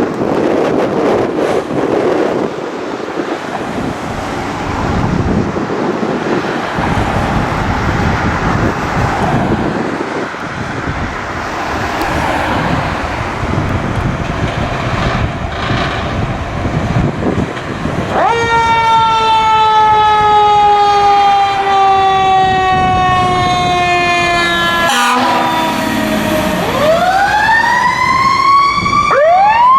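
Fire apparatus going by on a response, first as heavy truck engine and road noise. About two-thirds of the way in, a Federal Q2B mechanical siren takes over, winding down slowly in pitch for several seconds. After a sharp click it is spun up again in quick rising and falling growls near the end.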